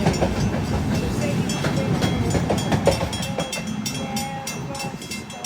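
Long Island Rail Road train running past on the tracks, wheels clicking over the rail joints, the noise fading away as the train moves off.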